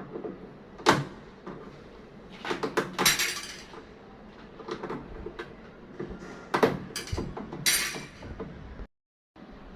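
Irregular knocks and clatters of hard objects being handled, moved and set down, a few of them sharper scraping rattles.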